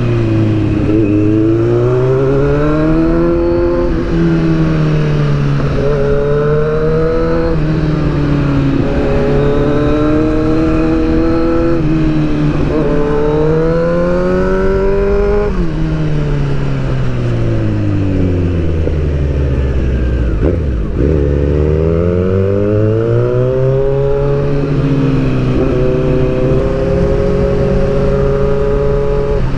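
Inline-four sportbike engine under hard acceleration, its pitch climbing and dropping sharply at each upshift every few seconds; about halfway through the revs fall away slowly as the bike slows, then climb again as it pulls away.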